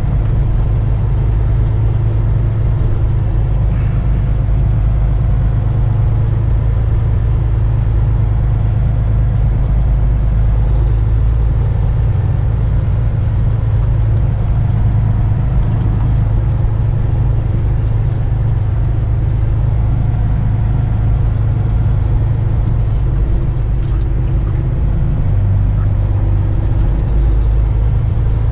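Semi truck's diesel engine running steadily at low speed, heard from inside the cab as the rig pulls into a parking spot. A few brief high squeaks come about two thirds of the way through.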